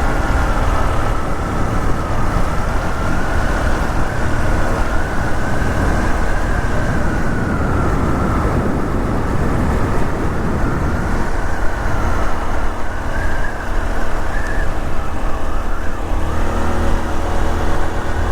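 Honda Super Cub 125's air-cooled single-cylinder four-stroke engine and exhaust running under way, heard from the bike. A high whine wavers up and down over the engine note, and the sound steadies near the end.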